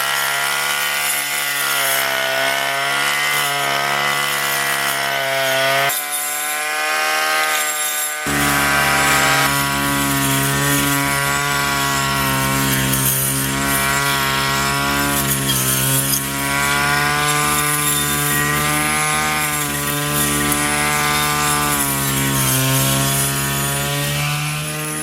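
Small two-stroke brush cutter engine running steadily at high speed, its pitch wavering slightly, after a carburettor overhaul. About eight seconds in, a deeper rumble joins and it gets a little louder.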